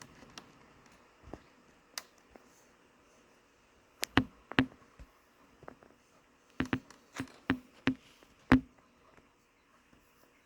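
Irregular sharp taps and knocks, one or two at a time with pauses between, in two clusters; the loudest comes near the end.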